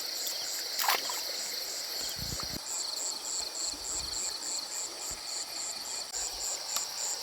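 Insect chorus, typical of crickets: an even high chirping pulse, about three to four a second, over a continuous high trill. A sharp click about a second in and a few soft low thuds a little later.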